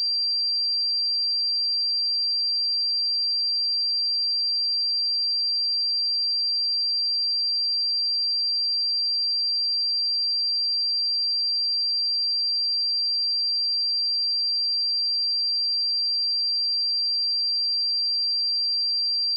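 A single pure 4722 Hz sine-wave test tone, high-pitched and held perfectly steady at one level.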